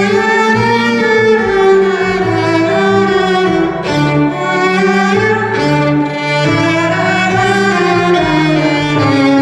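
Live instrumental passage of bowed strings: a violin line playing over held low string notes that change about every second.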